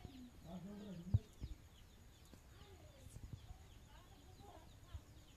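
Faint birds chirping, with a pitched call in the first second and two sharp knocks a little over a second in.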